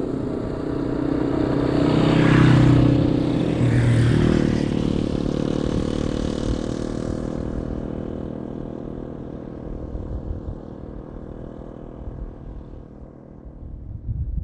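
Two small single-cylinder dual-sport motorcycles, a Yamaha XT250 and a TW200, ride past one after the other, about a second and a half apart, their engine notes bending in pitch as they go by. The engines then fade slowly into the distance.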